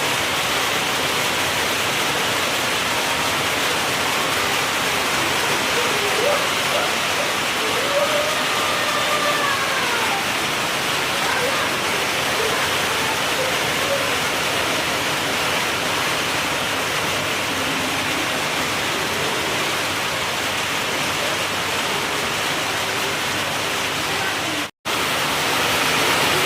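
Steady rain falling, an even, unbroken hiss that cuts out for an instant near the end.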